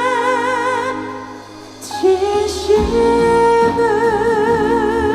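A female trot singer sings a held note with a wide vibrato over backing music. The sound thins out briefly about a second in, and new accompaniment chords come in about two seconds in.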